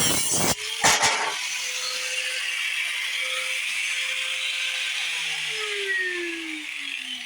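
Grinder with a cut-off wheel: a few short harsh bursts of cutting in the first second or so, then the motor running free with a steady whine, which falls in pitch from about five seconds in as it winds down after being switched off.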